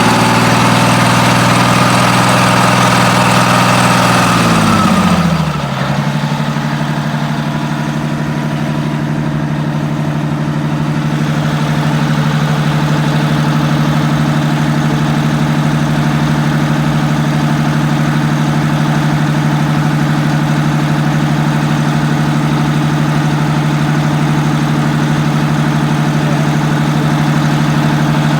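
Diesel engine of NJ Transit bus 3057 held at raised revs, then dropping back about five seconds in and idling steadily.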